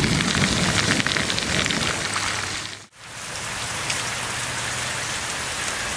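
Steady rushing hiss of water, thick with fine pattering ticks at first; it cuts out abruptly about three seconds in and comes back as a smoother, slightly softer hiss.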